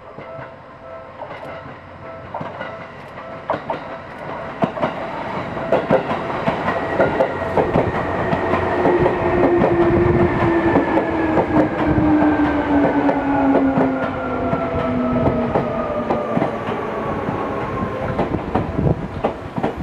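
Seibu 3000 series electric train pulling in past the camera and slowing to a stop: wheels clatter over the rail joints while a whine from the motors and gears falls steadily in pitch as it brakes. A level-crossing bell rings in the first few seconds.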